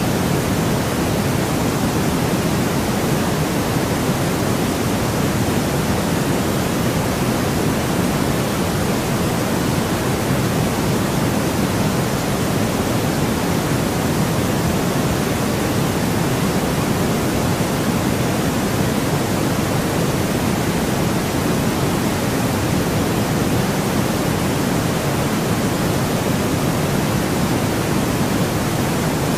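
Steady, unchanging white noise, an even hiss that sits heavier in the low end than in the highs.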